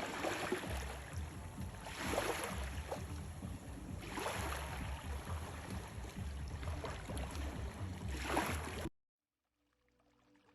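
Water washing in surges about every two seconds, with a low wind rumble on the microphone; it cuts off suddenly near the end.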